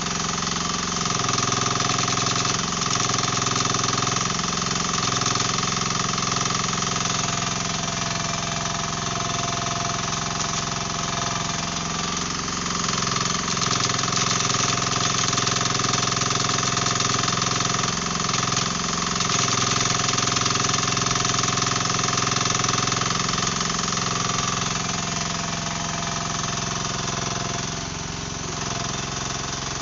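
Mini excavator's diesel engine running steadily under load while its hydraulic breaker hammers, chipping through concrete slabs.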